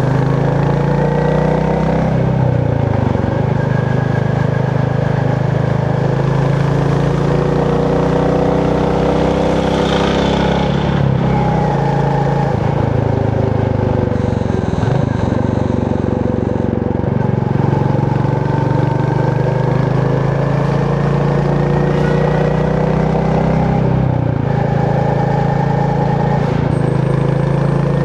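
Royal Enfield Meteor 350's single-cylinder engine and exhaust running on the move, the revs dropping and picking up again a few times.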